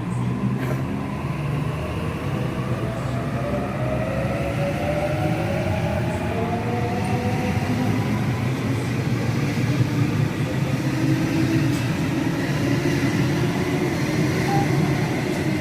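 Sydney Trains electric train running through, with a steady rumble and a motor whine whose tones rise slowly in pitch as it gathers speed.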